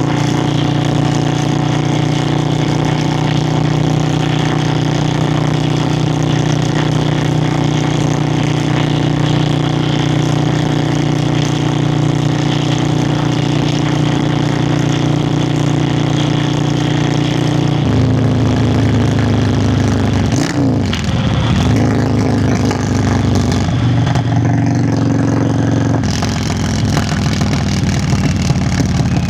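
Yamaha Virago XV535's air-cooled V-twin running under way at a steady engine speed, its exhaust note loud and even. The engine note changes about two-thirds of the way in, dips briefly and glides in pitch a couple of seconds later, and shifts once more near the end.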